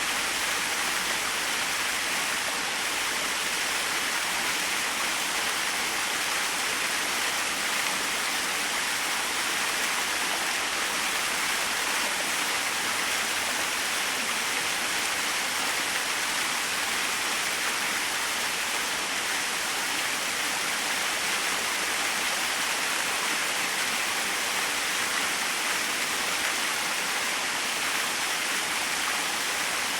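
Small waterfall splashing steadily, an even hiss-like rush of water with no breaks or changes.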